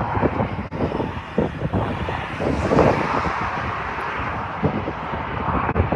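Wind buffeting the microphone in uneven gusts over a steady outdoor rumble.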